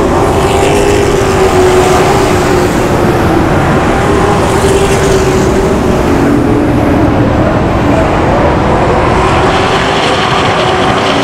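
Race trucks' engines running hard around the oval. The pitch rises and falls slightly as they race, a steady loud engine noise throughout.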